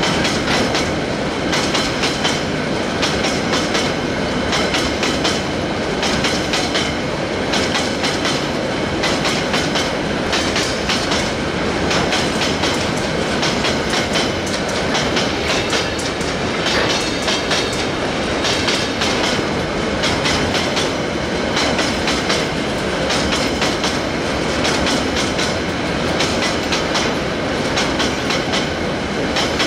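Freight train of empty hopper wagons rolling past, steel wheels clicking and clattering over the rail joints in a steady, continuous run.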